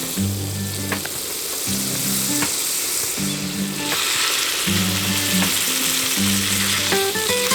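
Food sizzling and frying in a pan, with the sizzle growing louder about four seconds in.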